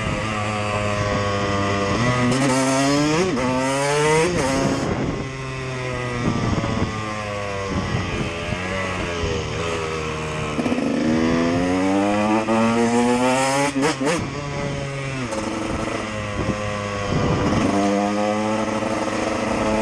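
Single-cylinder KTM EXC dirt bike engine revving. The pitch climbs and falls back several times, with sharp breaks where the throttle closes.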